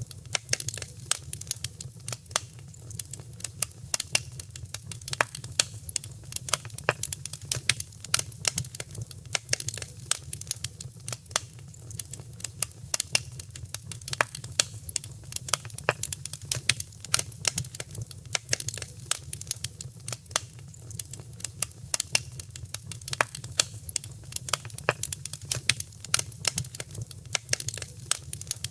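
Wood fire crackling in a fireplace: a dense, irregular run of sharp pops and snaps of varying loudness over a steady low rumble.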